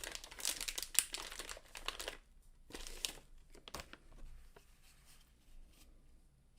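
Plastic packaging crinkling as the printer's electronics board is pulled out and handled, dense for about two seconds, then giving way to a few scattered light clicks and rustles.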